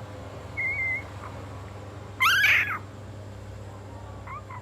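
Hungry young puppy crying: a short thin whine about half a second in, then a louder wavering cry about two seconds in, and a faint whimper near the end.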